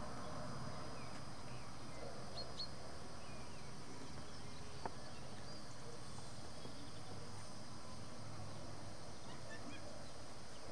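A few brief, high chirps from small birds over a steady low background rumble: two close together about two and a half seconds in, and fainter ones scattered through the rest. A single sharp click near the middle.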